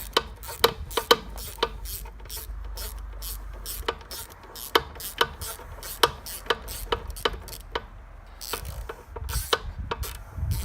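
Ratchet wrench clicking as it backs out a cylinder head bolt on an outboard motor, in a long run of sharp clicks that thin out near the end.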